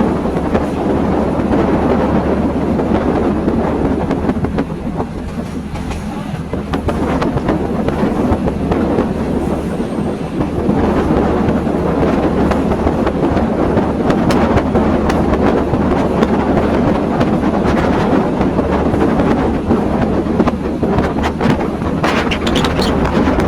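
Train running along the track: a steady rumble and rattle of the rail car, with a low hum underneath and a run of clicks and clacks in the last couple of seconds.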